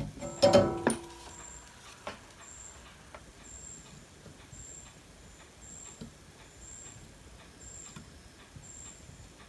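Small metal tools and parts clattering on a workbench in the first second, with a brief metallic ring. This is followed by quiet handling, with faint ticks and a faint high-pitched blip about once a second.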